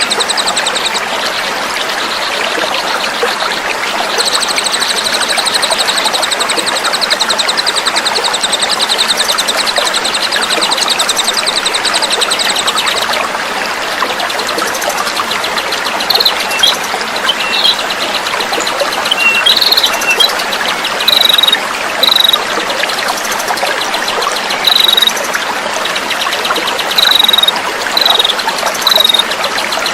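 Small songbird singing over the steady rush of flowing water: a fast buzzy trill for the first dozen seconds or so, then short chirps repeated about once a second.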